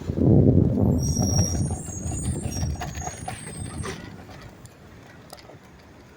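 Garbage truck rumbling loudly, then fading away over about four seconds, with short high squeaks about one to three seconds in.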